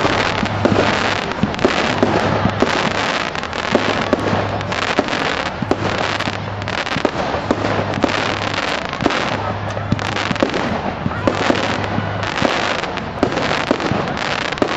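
Fireworks display going off in a dense, continuous barrage of sharp bangs and crackles, with no break.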